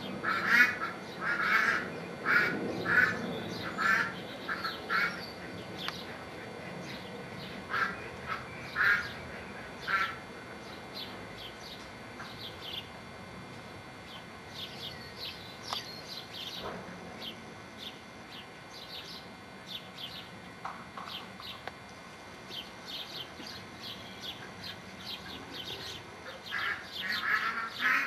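Birds calling outdoors: runs of short, sharp calls, several a second, loudest in the first ten seconds and again near the end, with fainter high chirps in between.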